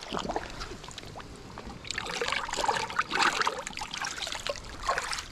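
Creek water trickling and splashing as a barramundi is rinsed by hand, with irregular splashes that grow louder about two seconds in.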